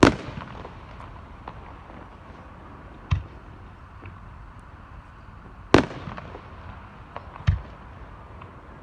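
Aerial firework shells bursting: four sharp bangs with echoing tails. The loudest come at the start and about six seconds in, and weaker, duller ones come about three seconds in and just after seven seconds, with faint crackles between.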